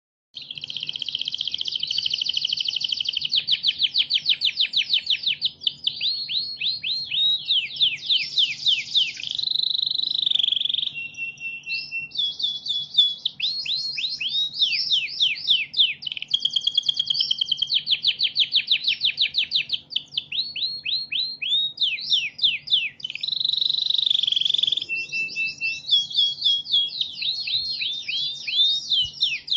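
Canary singing a long, continuous song of fast trills, rolls and rapidly repeated falling notes, high-pitched, broken only by a few short pauses.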